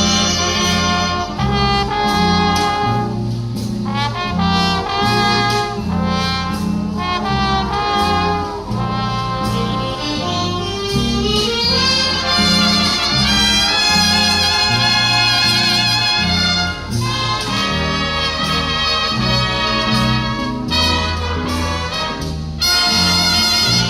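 Big band playing a jazz ballad live: brass and reed chords and melody over a bass line that steps from note to note, with a rising run about halfway through.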